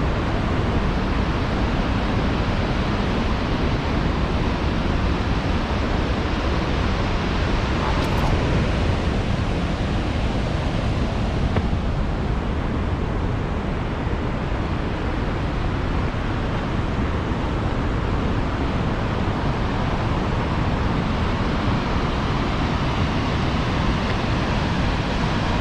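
Tännforsen waterfall's water rushing steadily, an even, unbroken noise.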